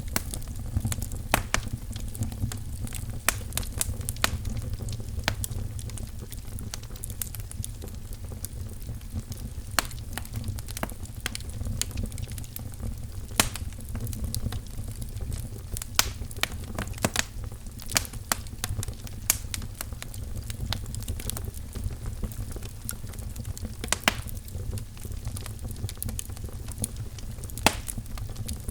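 Firewood crackling in a fireplace: irregular sharp pops and snaps over a steady low rumble.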